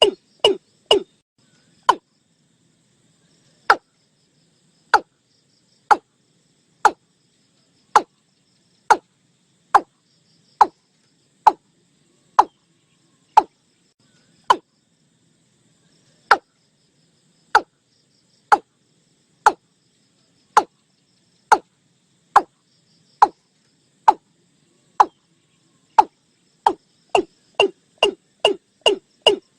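Watercock calling: a series of short, sharp notes, coming quickly at first, slowing to about one a second, then speeding up again near the end.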